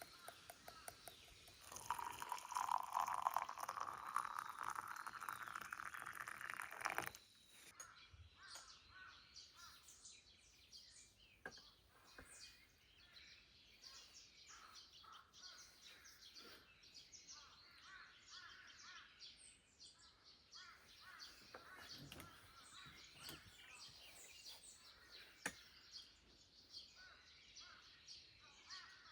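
Liquid poured into a cup or vessel for about five seconds, its pitch rising as the vessel fills and then stopping abruptly. After that there is quiet outdoor ambience with small scattered clicks and birds, including crows cawing.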